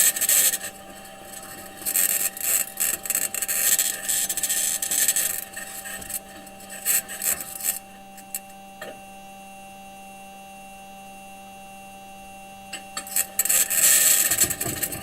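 Perseverance Mars rover's wheels grinding and scraping over rock as it drives, picked up by its onboard microphone: irregular rasping and clanking bursts over a steady electrical hum. The scraping drops away for about five seconds midway, leaving only the hum, then returns near the end. The clanks are what the narrator takes for the rover bumping over rocks or climbing.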